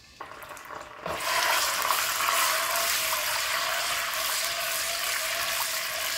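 Ginger-garlic paste sizzling in hot cooking oil in a nonstick kadai while a spatula spreads it around. The sizzle starts suddenly about a second in, then runs steadily.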